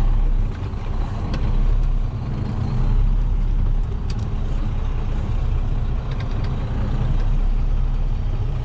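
Diesel engine of the semi truck Big Red running steadily with a deep rumble, a few light clicks over it.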